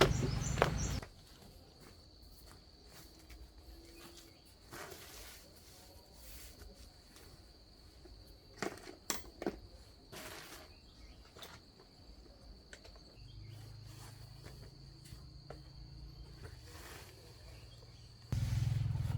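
A low motor-like hum cuts off about a second in. What follows is quiet: a faint steady high insect drone and scattered sharp clicks and knocks. A low hum comes back faintly later and turns loud again near the end.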